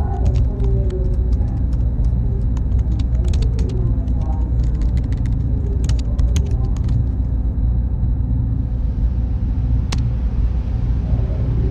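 Server room ambience: a loud, steady low rumble of cooling fans and air handling, with faint murmuring voices and scattered small clicks in the first part. A brighter high hiss comes in about three quarters of the way through.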